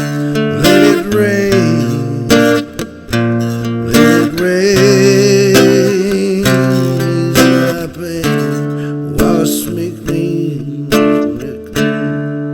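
Acoustic guitar strummed through an instrumental passage of the song, with a wavering held melody note over the chords about halfway through.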